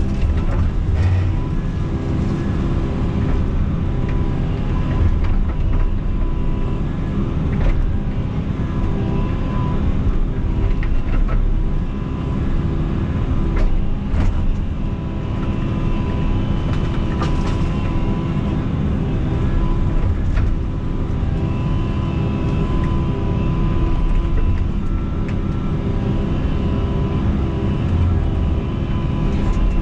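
Tracked excavator's diesel engine running steadily under working load, with scattered short clanks and knocks.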